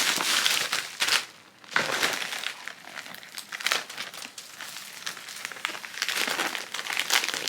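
Plastic packaging crinkling and rustling as used dental impression trays are closed up and packed away for shipping, with a brief pause just over a second in.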